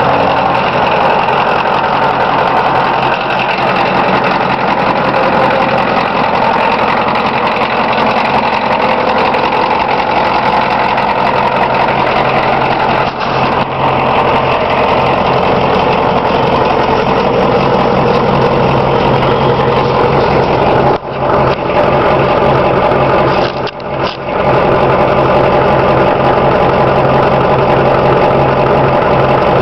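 Ford 6.9-litre IDI V8 diesel idling steadily just after a cold start, through a 3.5-inch straight-pipe exhaust with a gutted half glass pack. The level drops briefly three times, around a third, two thirds and three quarters of the way through. The owner says the engine needs new injectors.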